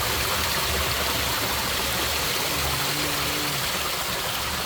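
Creek water rushing steadily over rocks, an even unbroken sound. A brief faint low hum about halfway through.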